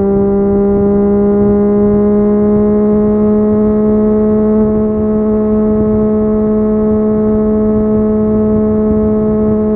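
Triumph Street Triple 765 RS inline three-cylinder engine through an Akrapovic exhaust, running at steady high revs under way, its pitch creeping slowly upward.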